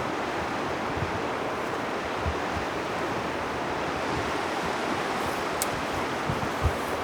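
Steady rushing of river water, an even noise without change. A few soft low thumps come through it, about a second in, at two seconds and near the end.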